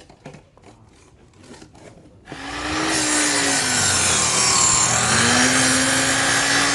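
Faint rhythmic scraping strokes, about four a second, then about two seconds in a power saw starts cutting, loud and steady. Its motor note sags in the middle of the cut as the blade takes load, then recovers.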